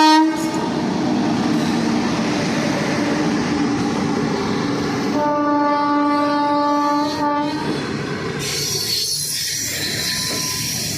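Passing electric train running with a steady rumble and rail clatter, its locomotive sounding one long horn blast from about five seconds in to about seven and a half, with another horn just ending at the start. A brighter, hissing rail noise comes in near the end.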